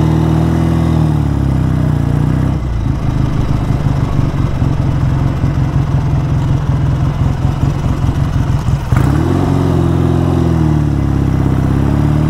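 BSA A10 Super Rocket's 650 cc parallel-twin engine on the move. It pulls steadily at first, then runs unevenly and choppily for several seconds. A single sharp crack comes about nine seconds in, and the revs then rise and fall as it pulls again. The carburettor has just been home-adjusted, and the rider finds it running about as lumpy as before.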